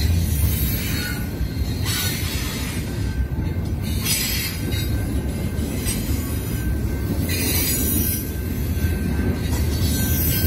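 Train rolling past: a steady low rumble of wheels on rail with no break. A faint thin high tone runs underneath.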